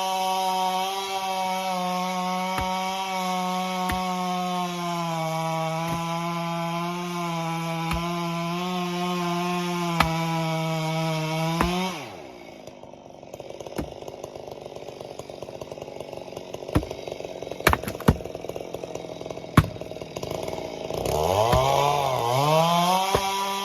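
Chainsaw running at high revs, its pitch sagging a little as it works, then dropping off suddenly about halfway through. A quieter stretch follows with a few sharp knocks, and near the end the saw revs back up to a steady high pitch.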